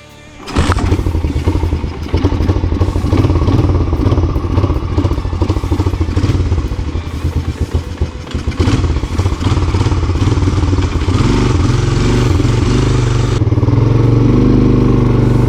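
1987 Honda TRX 250 ATV's single-cylinder four-stroke engine kick-started, catching about half a second in. It runs with uneven, rising and falling revs, then settles to a steadier run after about ten seconds.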